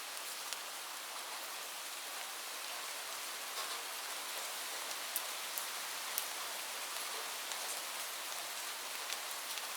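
Light rain falling steadily, an even hiss with scattered sharper drop ticks.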